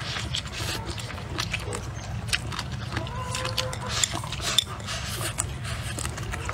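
Close-up eating sounds of a person chewing a mouthful of rice with bamboo shoots and pickled peppers: wet smacks and many quick mouth clicks.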